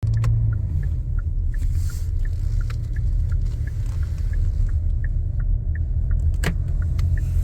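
Steady low rumble of a car driving, heard from inside the cabin, with faint light ticks and one sharp click about six and a half seconds in.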